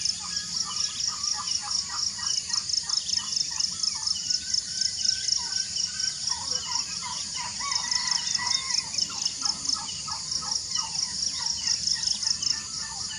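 A high-pitched insect chorus, pulsing rapidly and steadily, with assorted birds chirping and calling over it.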